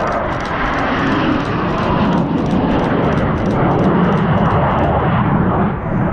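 Fighter jet flying low through the canyon: a loud, rushing jet roar that deepens in its second half and begins to thin near the end as it passes.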